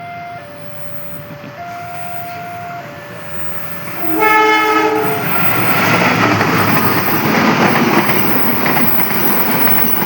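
An electronic railway level-crossing alarm alternating between two notes, then about four seconds in a locomotive horn sounds loudly for about a second, followed by a passing train's rumble and wheel clatter on the rails.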